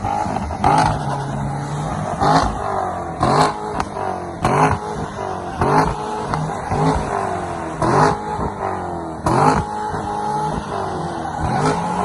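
Corvette Grand Sport V8 revving over and over. Each rev starts with a sharp crack, about eight in all, and the pitch falls away after each one.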